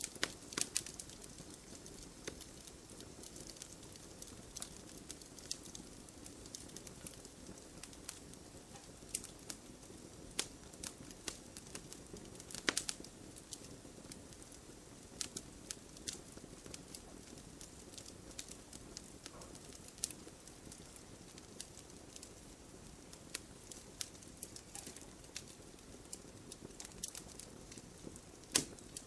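Wood fire burning, with a low steady hiss of flames and irregular sharp crackles and pops, one louder pop about halfway through.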